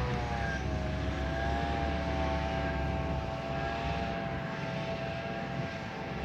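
John Deere self-propelled forage harvester running, a high whine with a low engine drone beneath; the whine rises a little in pitch in the first second or so, then holds steady.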